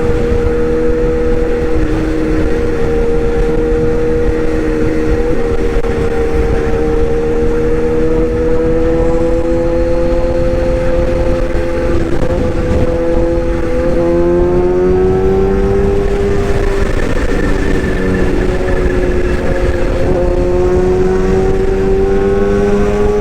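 Excavator's engine running steadily, its pitch shifting about two-thirds of the way through.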